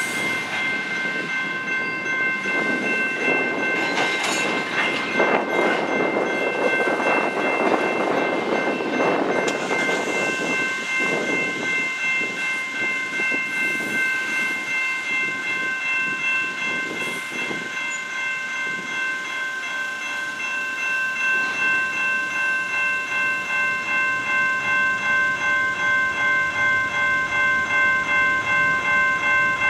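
Canadian Pacific freight cars rolling and clanking through a level crossing, their wheel rumble fading after about ten seconds as the last cars go by. A pulsing level-crossing warning bell rings steadily throughout.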